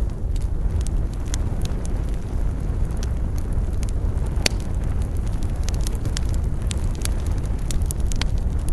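Wood fire burning with a steady low rumble and hiss, and irregular sharp crackles and pops throughout, one louder pop about halfway through.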